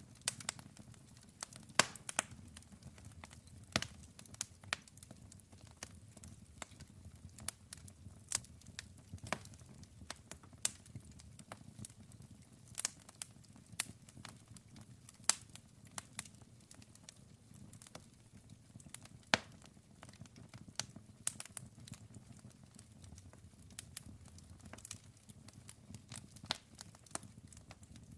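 Wood fire burning, with sharp irregular crackles and pops over a low, steady rumble of the flames.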